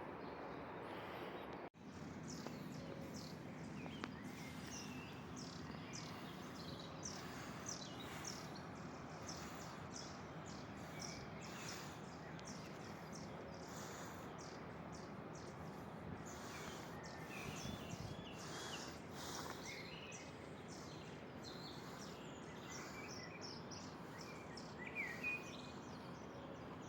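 Small birds chirping and calling repeatedly over a steady outdoor background hiss with a faint low hum. The sound cuts out for a moment about two seconds in.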